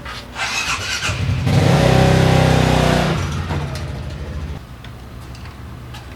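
Motorcycle engine revving up and easing off: it swells about a second in, is loudest for a second or two, then dies back down.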